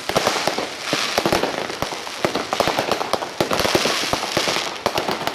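Fireworks going off in rapid succession: many sharp bangs from bursting shells mixed with dense crackling from glittering stars.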